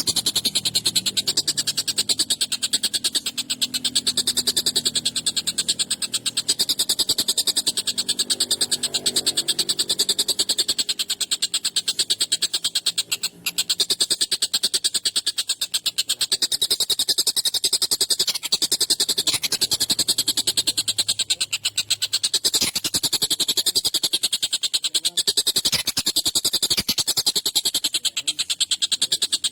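Tengkek buto, a kingfisher, calling in a rapid, harsh chattering rattle that runs on without pause, with a brief break about 13 seconds in.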